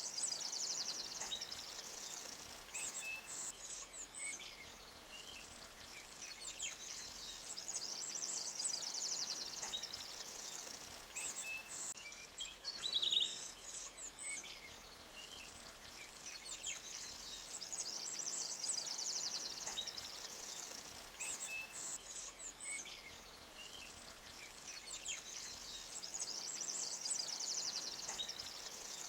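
Forest birdsong: high, rapid trills that swell up every several seconds, with scattered short chirps, over a faint steady hiss of a forest creek.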